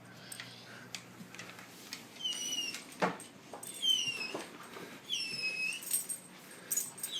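A dog whining in short high-pitched whimpers, three or four in a row a bit over a second apart.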